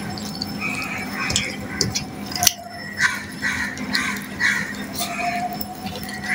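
Eating by hand: wet chewing and lip smacking, repeated every half second or so, with fingers mixing rice on a steel plate and small scattered clicks, the sharpest about two and a half seconds in.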